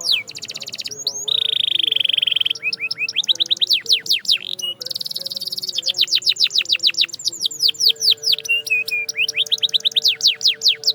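Canary singing: fast runs of down-slurred whistled notes, about eight a second, with a buzzy rolled phrase near the start, breaking off abruptly at the end.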